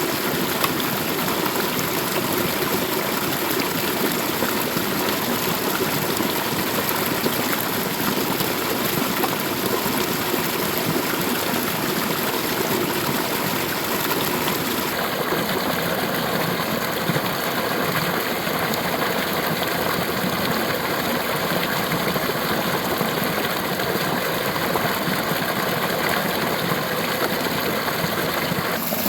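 Steady rushing of a river running over rocks, its tone changing abruptly about halfway through.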